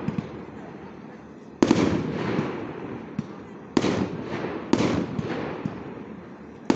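Aerial firework shells bursting overhead: four loud bangs, the first about a second and a half in, two close together around four and five seconds, and the last at the very end, each dying away in a long rolling echo, with a few smaller pops between them.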